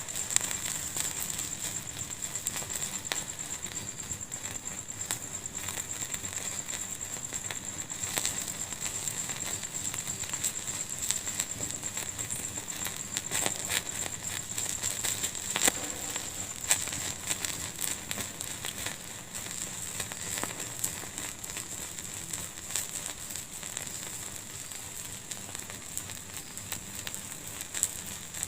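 Wood fire in a fireplace crackling steadily, with many small sharp pops of varying loudness over a steady high hiss.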